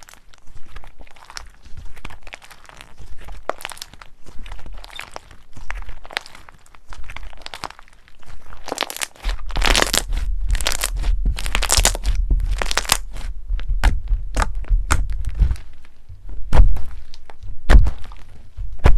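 Crunchy slime being squeezed and pressed by hand, with many quick crackles and crunches close to the microphone. The sound becomes louder and denser about nine seconds in.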